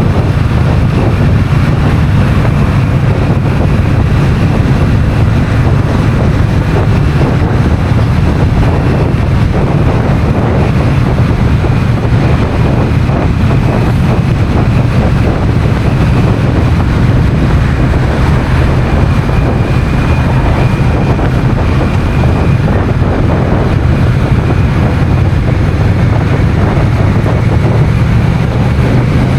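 Honda CMX1100 Rebel's parallel-twin engine running at a steady pace on the road, with wind rushing over the camera microphone.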